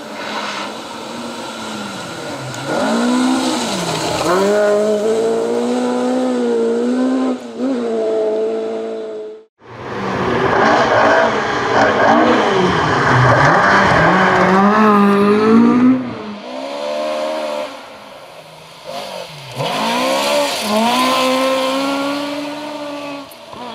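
Ford Escort Mk2 rally car engines at full throttle, revs climbing and dropping sharply several times through gear changes and lifts. The sound cuts out abruptly about ten seconds in and resumes louder with another car.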